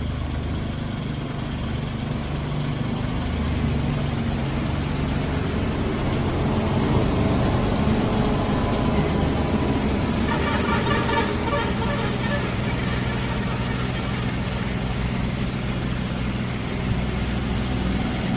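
VST tractor's diesel engine running steadily, a little louder from a few seconds in.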